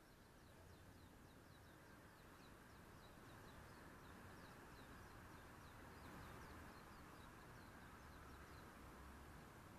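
Very faint outdoor quiet with a bird calling in a long series of short, high, falling chirps, about three a second.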